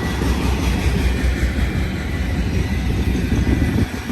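Freight train cars, BNSF autoracks, rolling past close by: a steady rumble of wheels on rail with no breaks.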